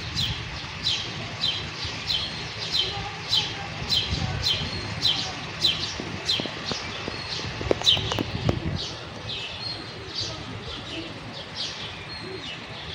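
House sparrows chirping: a steady run of short, falling cheeps, about two a second, over a low rumble.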